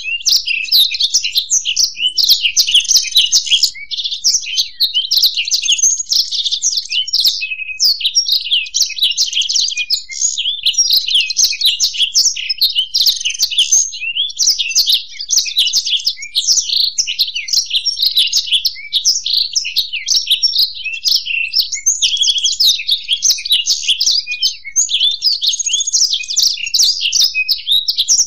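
Black-throated canary and European goldfinch singing together in a continuous stream of rapid, high twittering and warbling song with no pause.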